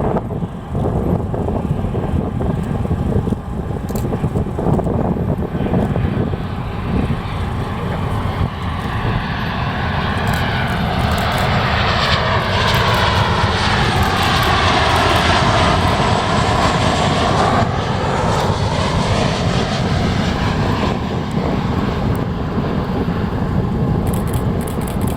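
Jet airliner on landing approach passing low overhead. Its engine noise swells from about a third of the way in, peaks around the middle, then fades, with a sweeping, phasing whoosh as it goes over.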